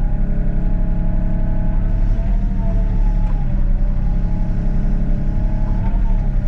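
Excavator's diesel engine running steadily under hydraulic load while digging, with a whining tone that shifts in pitch about two seconds in and again near the end as the controls are worked.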